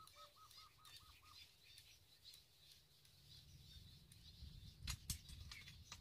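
Faint birdsong: a quick run of short, even notes, about seven a second, fading out a second or so in, over faint high chirping that keeps on. Two soft clicks sound about five seconds in.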